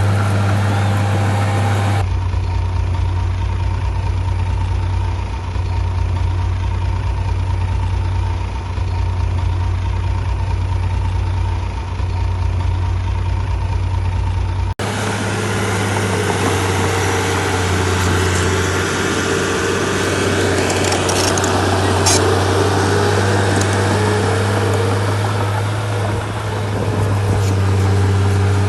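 A bulldozer's diesel engine running steadily with a deep hum. The sound changes abruptly about two seconds in and again about halfway through.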